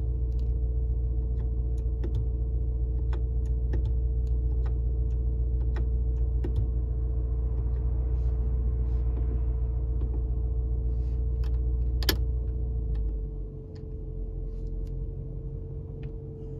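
Cabin sound of the G63's twin-turbo V8 idling: a steady low rumble with a steady hum, dotted with small clicks. A sharper click comes about twelve seconds in, and just after it the rumble drops noticeably quieter.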